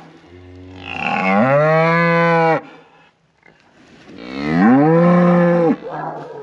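Cows mooing: two long moos, each rising in pitch and then held steady before cutting off, the second following about a second after the first, with fainter calls near the end.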